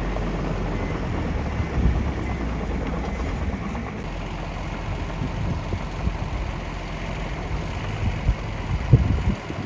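Miniature construction machine running, a steady engine-like drone that grows rougher, with a few sharp knocks near the end.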